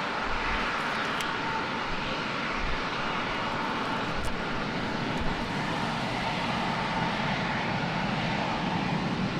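Jet airliner engines running, a steady rushing noise with a faint high whine.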